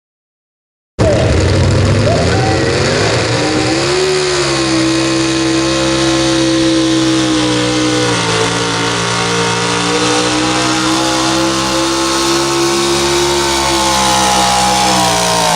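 Super stock 4x4 pulling truck's engine at high revs, starting suddenly about a second in. The pitch climbs about four seconds in and holds high and steady, then falls away near the end as the revs drop.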